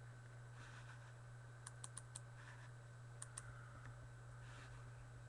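Faint computer clicks from keyboard or mouse use: a quick run of four about two seconds in, then two more about a second later, over a low steady hum.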